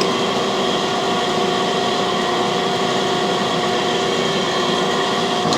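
Cam grinding machine running steadily: an even mechanical hum with several held tones and no strikes or changes.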